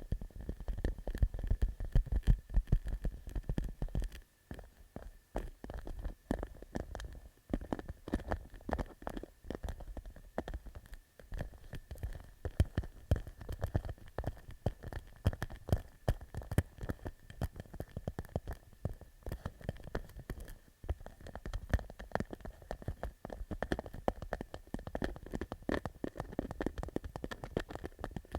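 Fingertips tapping rapidly and irregularly on a clear plastic pouch, many quick light taps with a crackly quality. The sound is like popcorn popping.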